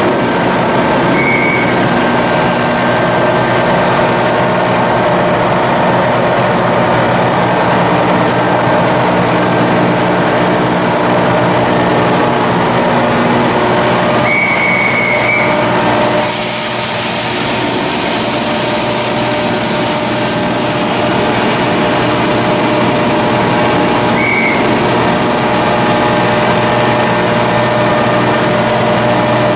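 Marine diesel machinery running steadily and loudly, with many steady tones over a heavy hum. A short high beep sounds three times. About halfway through, a loud high hiss of rushing air joins in and holds, and the mix of machine tones shifts.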